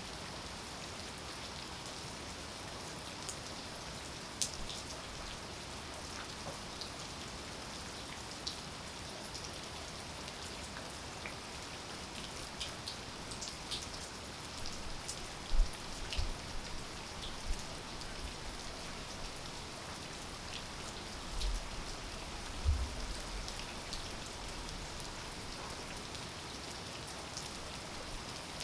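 Steady rain falling, with single drops ticking close by and a few sudden low thumps about halfway through.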